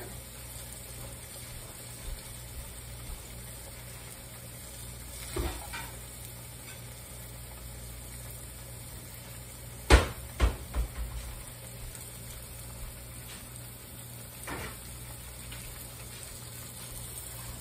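Squash slices frying in hot oil in a cast-iron skillet: a steady, even sizzle. A few knocks and clatters break in, the loudest about ten seconds in, followed quickly by two or three smaller ones.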